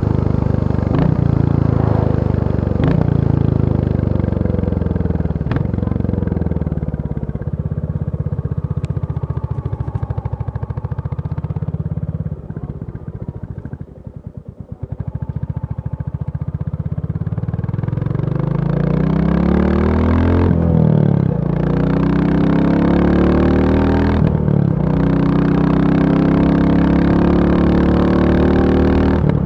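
Royal Enfield Bullet 350 single-cylinder engine slowing down to a low, thumping beat, then pulling away again. The revs climb and drop sharply twice, about 21 and 24.5 seconds in, as the gears change, before it settles to a steady run.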